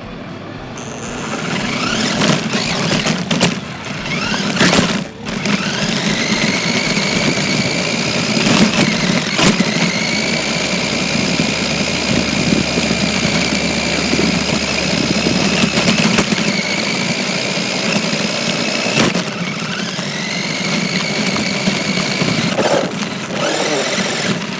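Electric motor of an RC car whining as it speeds up, then holding a high, steady pitch, with sharp knocks and rattles from bumps over the ground. Near the end the whine drops and rises again as it slows and speeds up. Heard close up from a phone taped onto the car.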